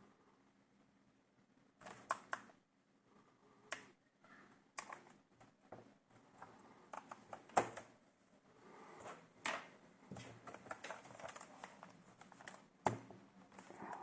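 Irregular plastic clicks, taps and knocks of a laptop and its parts being handled, with a few sharper knocks about halfway through and near the end.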